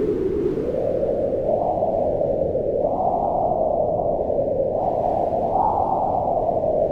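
Wind blowing in slow gusts, a low rushing noise that swells and eases every couple of seconds.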